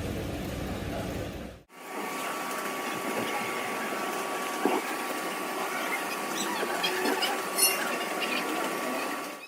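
Workshop noise: a low rumble for the first couple of seconds, then, after an abrupt cut, a steady machine whine with scattered metallic clicks and taps.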